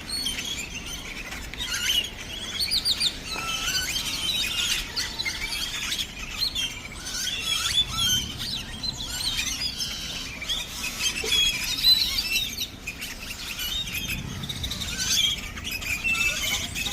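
A large flock of birds in one tree chirping and calling all at once, a dense chatter of many overlapping high chirps and whistles.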